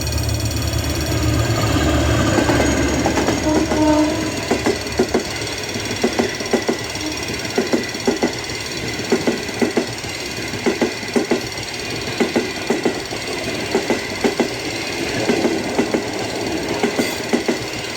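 General Motors GT-22 diesel locomotive passing close with its engine running low and strong, then a string of freight wagons rolling by, their wheels knocking over the rail joints in regular pairs.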